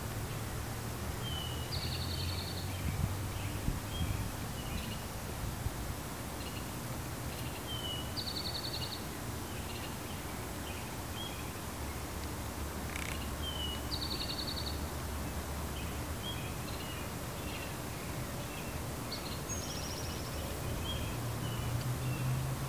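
A bird calls the same short high phrase four times, about six seconds apart: a brief falling whistle, then a buzzy trill. Smaller chirps fall in between, over a steady low hum.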